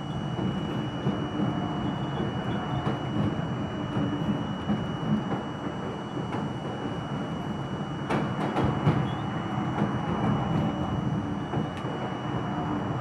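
R42 subway train running along the track: a steady rumble of wheels on rails, with a few sharp clicks about eight to nine seconds in.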